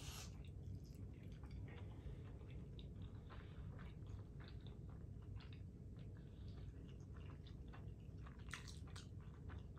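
A woman chewing a mouthful of soft macaroni and cheese: faint, irregular mouth clicks all through.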